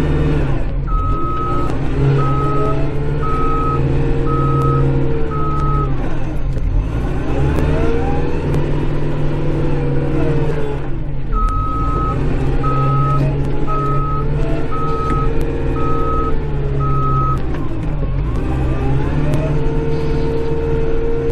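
Kubota Grand L5740 tractor's diesel engine running and revving up and down as the tractor shuttles back and forth. Its reverse beeper sounds twice while backing, each time a run of about six evenly spaced beeps.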